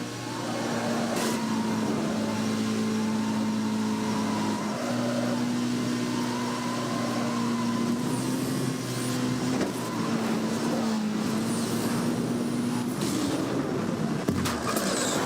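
A car's engine running at a steady pitch, with a constant low hum that breaks off briefly a few times.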